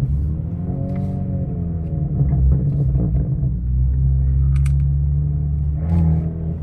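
Low engine rumble from a big-turbo Genesis G70 2.0T's turbocharged four-cylinder, heard from inside the cabin, mixed with rap music from the car stereo.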